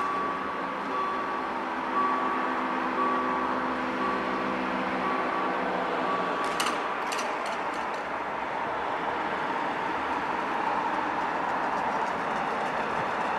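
Railway level crossing's warning signal sounding a repeated high beep over a low hum. The beep stops about six and a half seconds in, just after a few sharp clicks, and a steady rumble continues.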